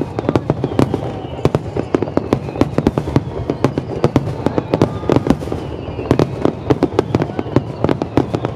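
Aerial fireworks bursting in a rapid, continuous barrage of many overlapping bangs and cracks.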